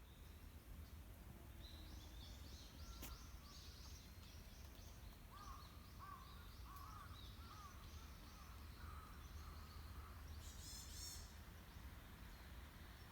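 Faint wild birds calling: a run of short high chirps in the first few seconds, a series of short lower arched calls through the middle, and a brief high chatter near the end, over a low steady rumble. A single sharp click about three seconds in.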